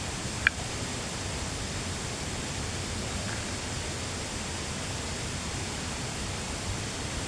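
Steady rushing background noise, with a single sharp click about half a second in.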